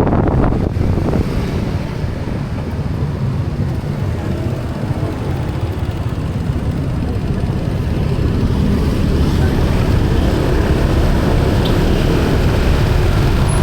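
Motorbike riding along, its engine running under a steady rush of wind buffeting the microphone. The rush grows a little louder from about eight seconds in.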